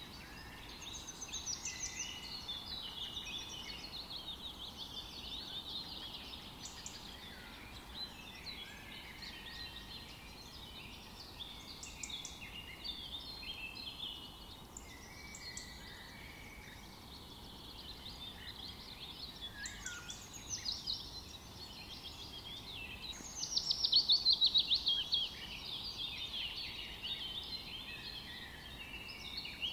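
Small birds chirping and twittering in a steady chorus of short calls. A louder rapid trill comes a little past the middle.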